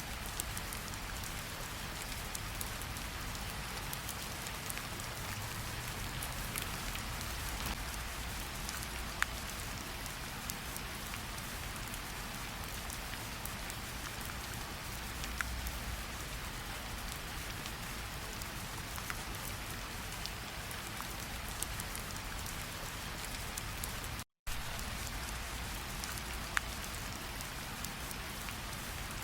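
Steady rain falling, with scattered single drops ticking now and then. The sound cuts out completely for an instant about 24 seconds in.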